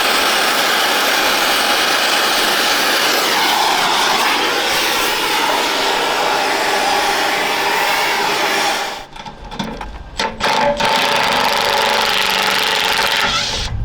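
Impact wrench running hard on a seized bolt on old steel armour plate, in long steady stretches. It stops and restarts briefly a couple of times near the end.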